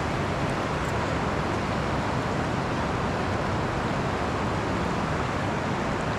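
River rapids rushing steadily close by, an even, unbroken water noise.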